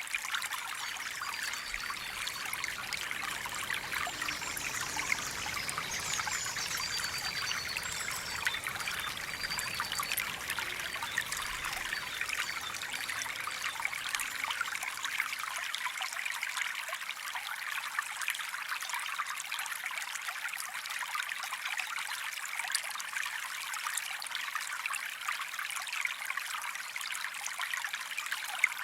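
Running water trickling and splashing steadily, like a small stream. Faint high chirps come in during the first several seconds.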